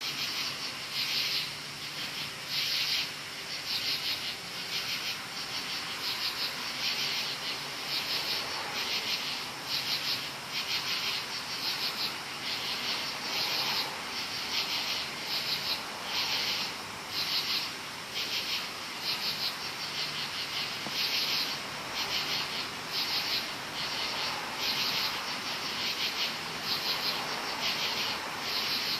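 A chorus of many crickets calling in the woods at night. Their high chirping pulses in a steady rhythm, a little over once a second, over a continuous high trill.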